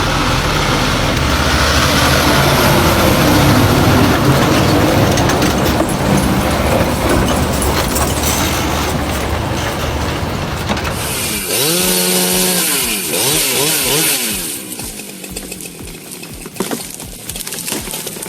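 Chainsaw cutting wood. About two-thirds through, the engine pitch swings up and down several times, and the sound is quieter near the end.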